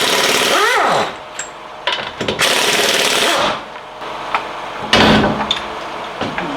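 Pneumatic impact wrench hammering on the 36 mm rear wheel-hub nut in three bursts: two of about a second each, the first with a changing motor whine, then a shorter one about five seconds in. The nut is staked into the hub and is not yet coming loose.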